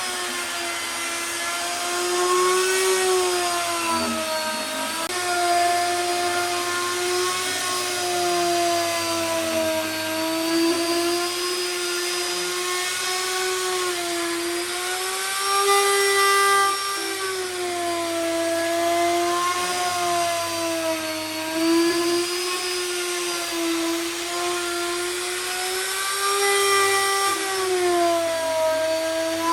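Electric power tool motor running continuously with a steady whine, its pitch wavering slowly up and down as the load on it changes.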